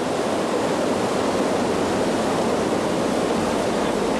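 Niagara Falls: water pouring and crashing, a steady rushing noise.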